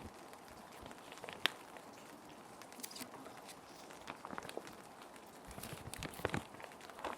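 Plastic sheet protectors being handled and slid, giving scattered crinkles and light taps: one sharp click about a second and a half in and a cluster of rustling near the end. Under it runs a steady hiss of rain.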